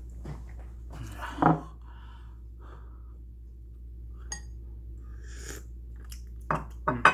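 Scattered kitchen handling sounds: a few soft knocks and rustles, a sharp click with a brief ring about four seconds in, and two louder short knocks near the end.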